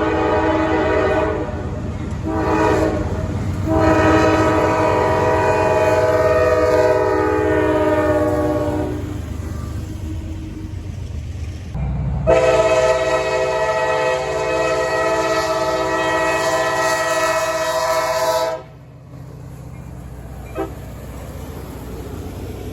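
Freight locomotive's multi-chime air horn sounding a chord: a few short blasts, then two long blasts, over the steady rumble of the moving train. The horn cuts off abruptly near the end and a quieter rumble continues.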